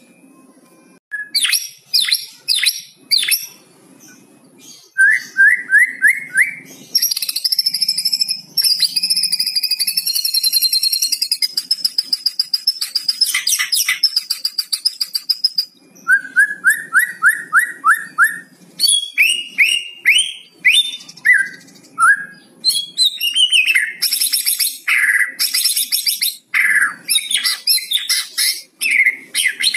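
White-rumped shama (murai batu) singing a varied song. It runs from sharp chirps into runs of rapid repeated falling whistled notes, with a long high buzzy trill in the middle.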